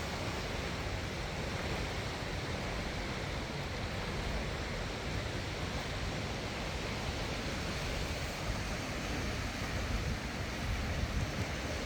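Steady rush of the River Trent's floodwater flowing past, with wind buffeting the microphone in low gusts that grow a little near the end.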